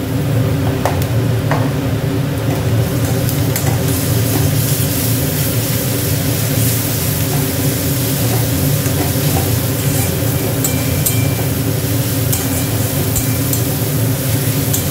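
Sliced onions and garlic paste sizzling in hot oil in a metal kadai, stirred with a flat metal spatula that scrapes and clicks against the pan. A steady low hum runs underneath.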